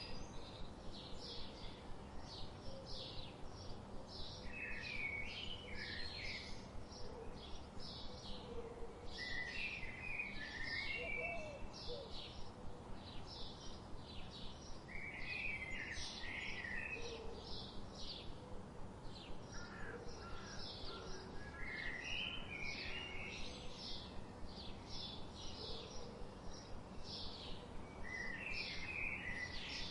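Birds chirping and singing: short high chirps repeating about two to three times a second, with a lower warbled song phrase breaking in roughly every five seconds over a faint steady hum.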